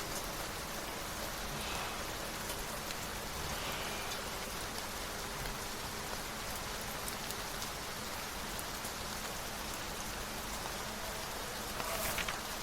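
Steady rain falling, with a brief rustle near the end.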